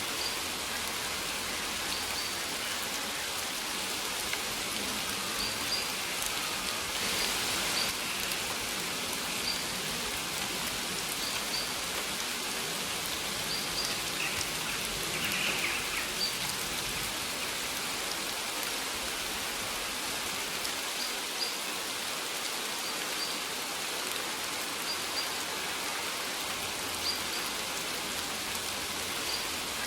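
Steady rain falling, an even hiss of drops, with faint short high bird chirps recurring every second or two.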